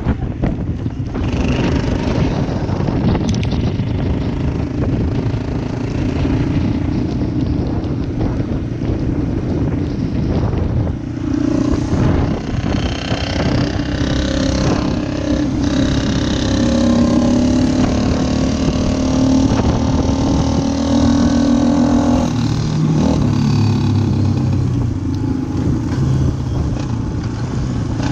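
Yamaha Wolverine ATV engine running under way, its pitch rising and falling with the throttle and dropping lower near the end, over steady wind and tyre noise.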